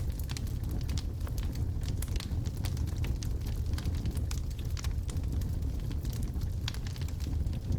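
Wood logs burning in a fireplace: a steady low rumble of the fire with many small, sharp crackles and pops at irregular intervals.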